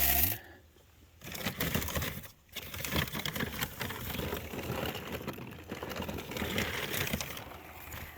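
Scratch grain being scooped and poured, a dense rattle of many small grains hitting one another and the container, with a short break about two and a half seconds in.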